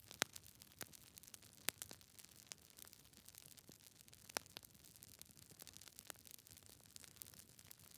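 Wood logs burning in a fireplace, crackling with a steady run of small snaps over a faint hiss, and a few louder sharp pops, the strongest about a quarter second in, near two seconds and a little past four seconds.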